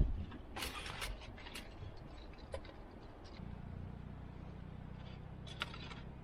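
A few sharp clicks and crackles. About halfway through, a low, steady mechanical hum like an engine running starts and carries on.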